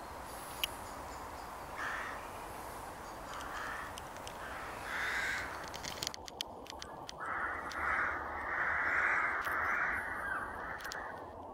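Crows cawing outdoors: several short harsh caws spaced a second or two apart, then a longer run of caws in the second half.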